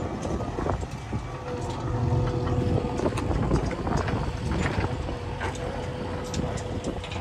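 JCB backhoe loader's diesel engine running with a steady low rumble and a faint steady whine, with scattered short knocks and clatters.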